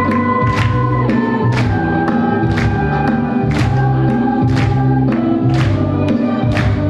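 Church ensemble singing a hymn medley with instrumental accompaniment, driven by a steady beat about once a second.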